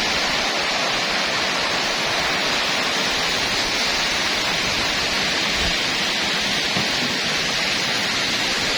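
Heavy rain pouring in strong wind: a dense, steady hiss with an uneven low rumble underneath.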